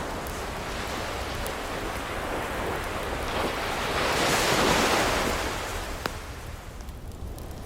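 An ocean wave swells and breaks in a long rush of surf that peaks about halfway through and then ebbs away. A few sharp pops of fireplace crackle sound over it.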